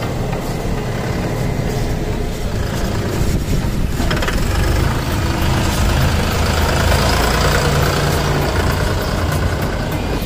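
Force Sanman 6000 tractor's three-cylinder diesel engine running with a steady low rumble. It grows louder from about four seconds in and eases slightly near the end.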